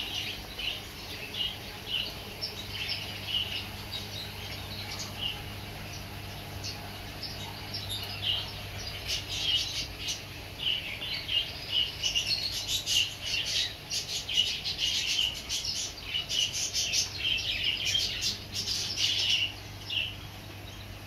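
Small caged birds in a pet shop chirping continuously: many short, high calls that grow busiest and loudest from about the middle onward, over a steady low hum.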